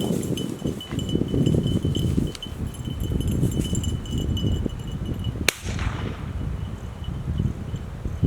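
A single gunshot about five and a half seconds in, over steady wind buffeting the microphone, with a rapid high-pitched beeping that fades after the shot.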